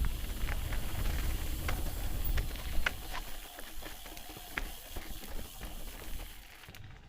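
Footsteps on a rocky trail: scattered sharp clicks and scuffs of shoes on stone, with wind rumbling on the microphone for the first few seconds.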